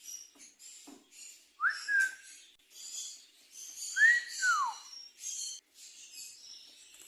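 Green-cheeked conure whistling twice, a short rising whistle and then a longer whistle that rises and falls, among soft scratchy chirps and clicks.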